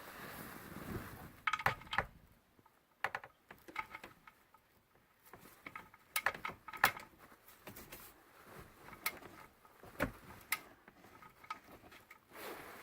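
Scattered metallic clicks and clinks of a ratcheting torque wrench working on the oil pan drain bolt, some ringing briefly, at irregular intervals as the bolt is snugged down.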